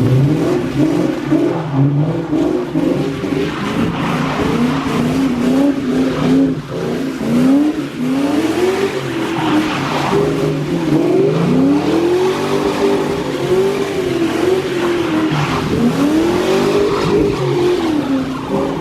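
New Edge Ford Mustang engine revving hard, its pitch rising and falling in repeated long sweeps as the car is driven aggressively.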